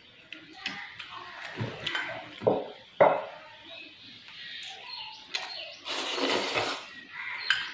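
Close-up eating noises from instant noodles: scattered chewing sounds and a couple of sharp clicks, then a loud slurp about six seconds in.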